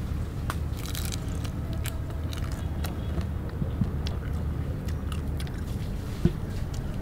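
Crunching and chewing on the shell and meat of a grilled mantis shrimp, heard as many small, irregular crackles and clicks over a steady low background rumble.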